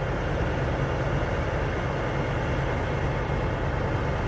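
Steady low rumble of a heavy diesel engine running at an even speed.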